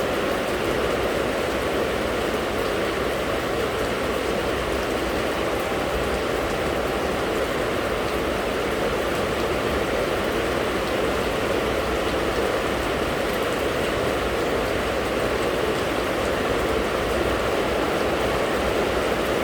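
Steady rain falling, an even, unbroken hiss of drops that holds at the same level throughout.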